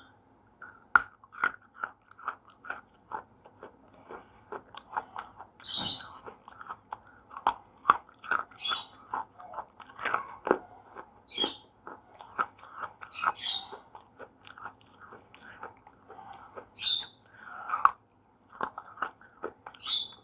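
Slate pencil being bitten and chewed: a steady run of small gritty crunches, broken every few seconds by a sharper, brighter snap.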